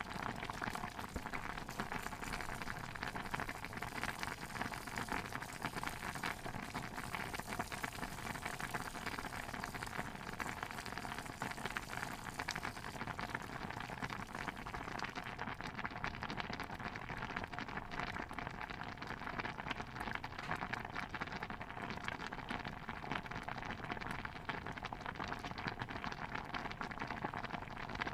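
Thick stew bubbling steadily in a pot, a dense run of small pops and gurgles; the fine top hiss thins a little about halfway through.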